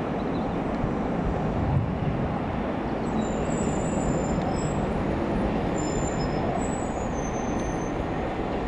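Midland Pullman train running past with a steady rumble, and faint thin high-pitched tones coming and going from about three seconds in.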